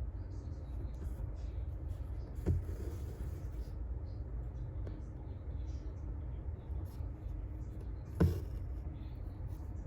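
Hand embroidery at work: faint rustling and ticking of needle and thread drawn through fabric in a hoop, over a steady low room rumble, with two light knocks, one a couple of seconds in and one near the end.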